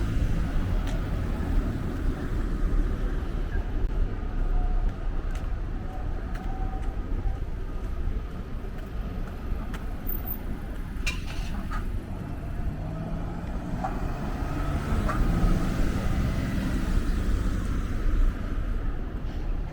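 Street traffic: cars running past with a steady low rumble, and a couple of sharp clicks about eleven seconds in.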